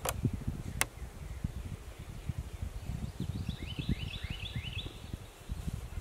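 A songbird sings one quick run of repeated chirping notes about three and a half seconds in, over a steady low rumble. There are two sharp clicks in the first second.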